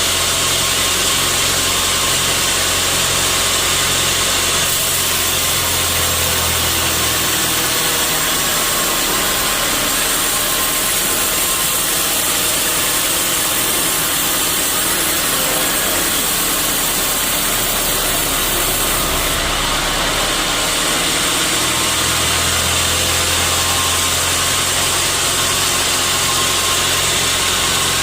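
Sawmill saw and its drive motor running with a constant loud noisy hiss. Its low hum drops away about seven seconds in and returns about three-quarters of the way through.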